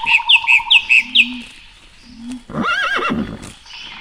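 A horse whinnying once, a shaky wavering call lasting under a second, about two and a half seconds in. It is preceded by a quick run of about four high, falling bird chirps at the start.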